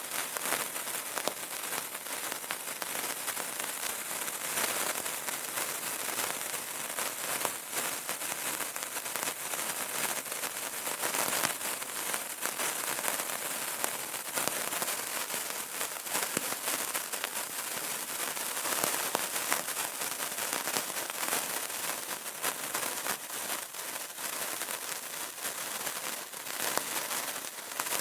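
Burning candle crackling steadily: a dense run of small pops and ticks over a soft hiss.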